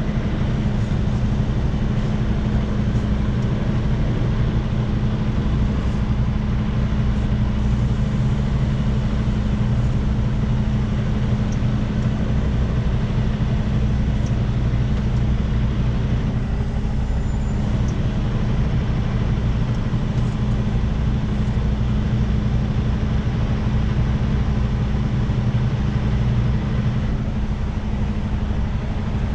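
International LT semi-truck's diesel engine running steadily at low revs while the rig backs slowly, a constant low drone.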